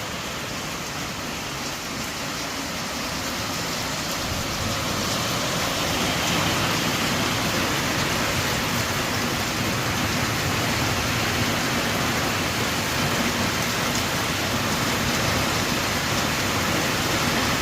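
Heavy rain falling on a tin roof: a dense, steady hiss that grows louder over the first several seconds and then holds steady.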